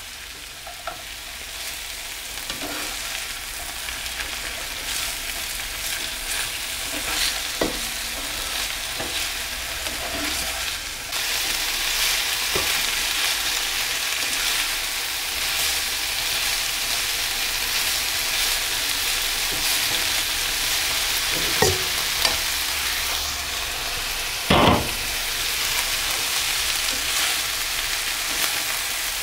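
Sliced onions and garlic sizzling in a frying pan, the sizzle growing louder over the first ten seconds or so, as a metal slotted spatula stirs them, scraping and tapping on the pan. Two sharper knocks of the spatula come in the last third.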